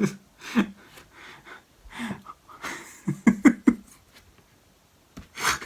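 A man chuckling and laughing through his nose in short breathy bursts, with a quick run of ha-ha-ha pulses about three seconds in.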